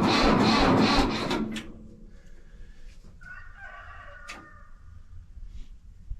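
Mahindra 3525 tractor's diesel engine being cranked by the starter, turning over slowly at about four beats a second without catching, then stopping about a second in. The sluggish cranking at 19°F is the sign of a low battery. A rooster crows a couple of seconds later.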